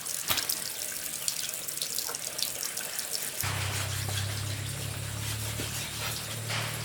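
Running water with small scattered clicks and clatters. A steady low hum starts about three and a half seconds in.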